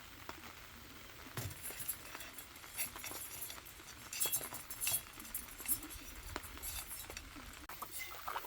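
Irregular light clicks and clinks of small objects being handled, louder and more frequent in the middle.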